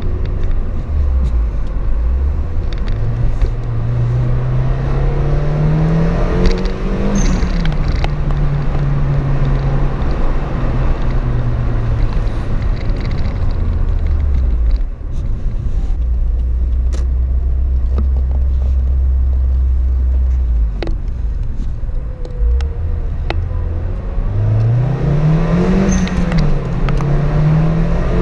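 Turbocharged Toyota Yaris TS accelerating hard twice in a tunnel, engine pitch climbing and then dropping at the shifts, with the HKS blow-off valve venting in short sharp bursts as the throttle closes. Between the two pulls the engine runs steadily at low revs.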